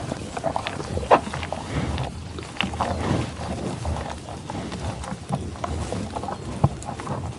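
Animal sounds with irregular clicks and knocks scattered through.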